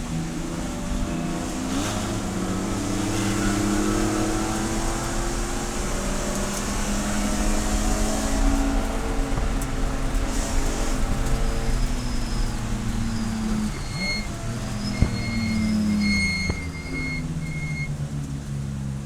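Race car engine running hard, its pitch climbing and dropping repeatedly as it accelerates, shifts and brakes. A series of short high electronic beeps sounds near the end, along with a single sharp click.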